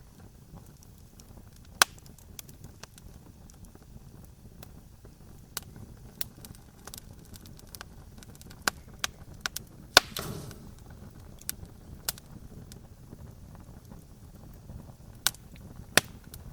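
Wood campfire crackling: irregular sharp pops and snaps over a low steady rumble of the burning fire, with the loudest pop about ten seconds in, followed by a short hiss.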